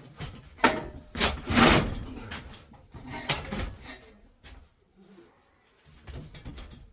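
A series of knocks and clunks from objects being handled, loudest about a second and a half in, then fainter and sparser, with a near-quiet stretch about five seconds in.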